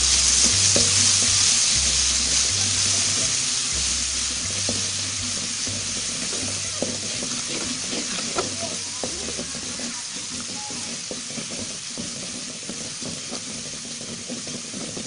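Ground chili-and-turmeric spice paste sizzling in hot oil in a wok, the hiss loudest at first and slowly dying down, while a metal spatula stirs it with small scrapes and taps against the pan.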